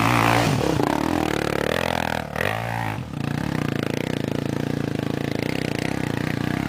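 Dirt bike engine with its revs falling away over the first few seconds, then settling into a steady idle from about three seconds in.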